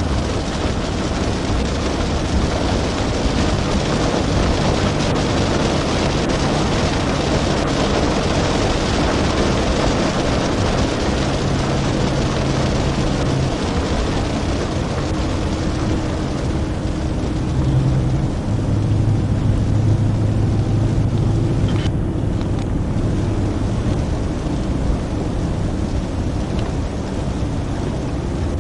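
A car driving: a steady rush of road and wind noise with an engine hum that shifts in pitch several times.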